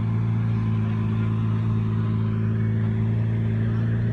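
Car engine running steadily, a constant low drone that holds one pitch.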